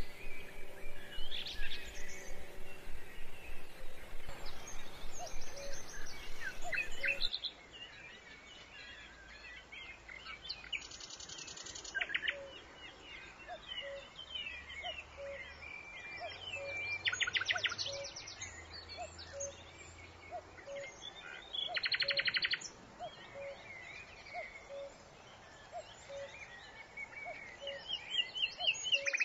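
Small birds chirping in the background, with short rattling trills every few seconds and faint regular ticks. A louder, rapid pulsing sound fills the first several seconds.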